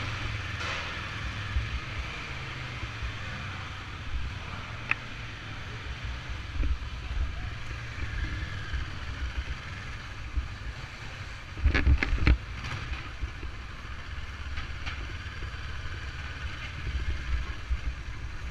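Kawasaki Versys 650 motorcycles riding along, engine running under wind buffeting on the microphone, with a few sharp knocks about twelve seconds in.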